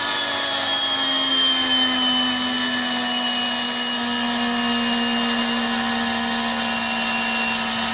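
Electric motor running on a dynamometer test stand, a steady whine with several tones that sink slowly in pitch as the stand gradually loads it and it slows under the heavier load.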